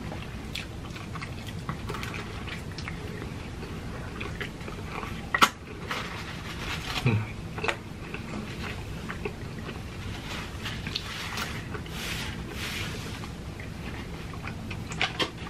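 Close-up chewing and mouth noises of people eating, with scattered small clicks and one sharp click about five and a half seconds in.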